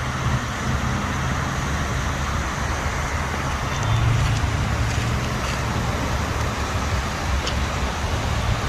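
Steady road traffic noise: a low vehicle rumble under an even hiss of tyres and wind.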